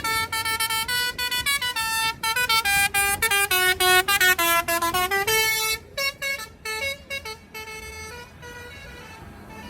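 Musical vehicle horn playing a quick tune of short, separate notes that step down in pitch and climb back up, then trail off in fainter notes about six seconds in.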